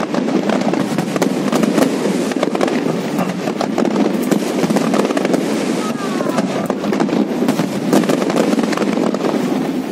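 An aerial fireworks display going off: a dense, unbroken crackle of bursting shells and crackling stars, with frequent sharp bangs.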